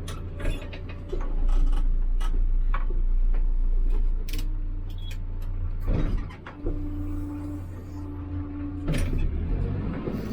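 HIDROMEK 102B backhoe loader's diesel engine running under load while it loads gravel, getting louder about a second in. A whine comes and goes several times over the engine, with scattered clanks and knocks.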